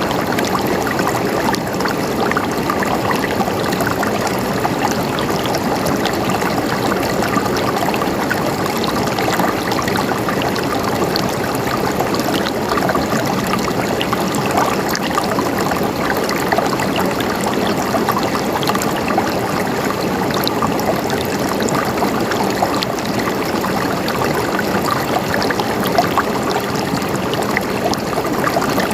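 Running water flowing steadily with a gentle gurgling and trickling, unchanging throughout.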